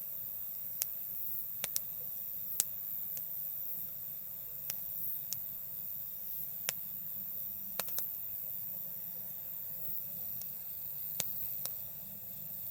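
Wood campfire crackling, with sharp pops at irregular intervals, roughly one a second, over a steady high-pitched insect chorus.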